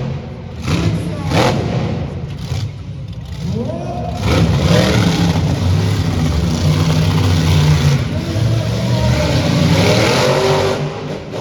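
Monster truck engine revving: the pitch rises sharply about four seconds in, then the engine runs loud and fairly steady, easing a little near the end.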